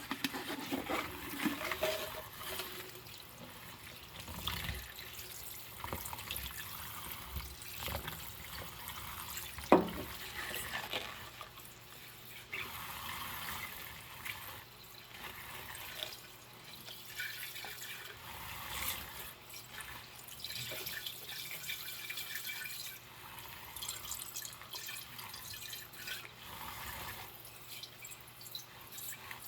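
Dishes being washed by hand in a sink with rubber gloves: water dripping and splashing while dishes are scrubbed and handled, with many small clinks and one louder knock about ten seconds in.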